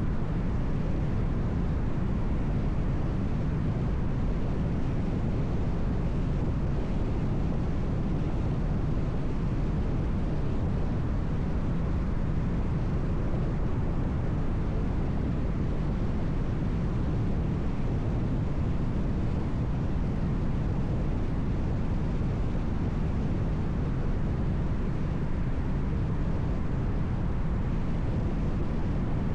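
Steady road noise of a car driving on a highway: an even, low rumble of tyres and engine that holds without change.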